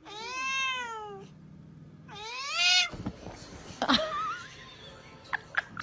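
A domestic cat meowing twice, two long meows that rise and fall in pitch, about two seconds apart. A few short knocks and clicks follow.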